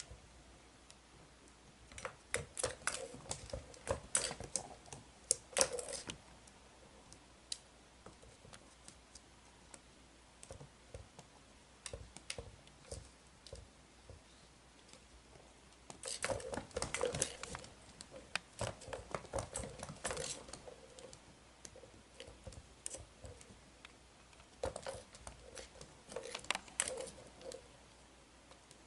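A kitten batting and chasing a toy, which clatters and taps in three bursts of rapid clicks, with quiet pauses in between.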